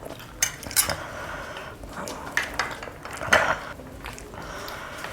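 Tableware being handled: a handful of sharp clinks and knocks of plates, bowls or utensils, the loudest about three seconds in.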